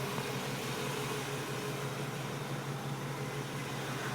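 Chevy 350 V8 idling steadily, an even low hum with no change in speed.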